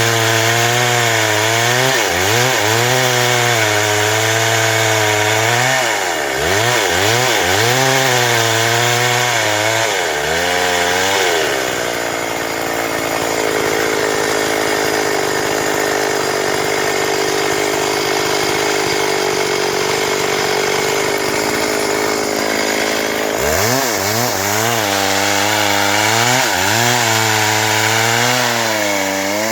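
Stihl MS 382 two-stroke chainsaw running while sawing wood. Its engine pitch rises and falls over and over, settles into a steadier, even note for about ten seconds in the middle, then rises and falls again near the end.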